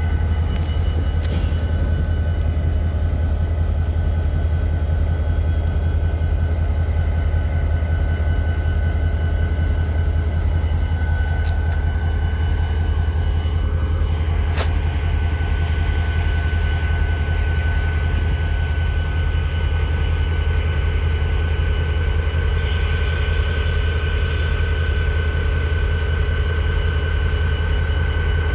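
Train in a railyard: a steady low rumble with a sustained high squeal from the rail cars. A single sharp clank comes about halfway through, and a hiss comes in about three-quarters of the way through.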